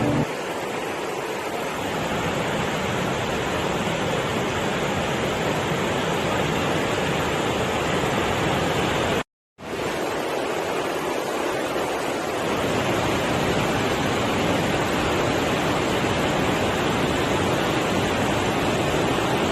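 Steady, unbroken rush of water, like a waterfall or rapids, cut off abruptly for a moment about halfway through and then resuming.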